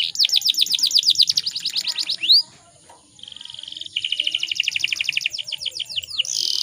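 Canary singing in fast rolling trills: a run of rapid sweeping notes, a short break about two and a half seconds in, then a buzzy steady trill and another run of quick repeated notes.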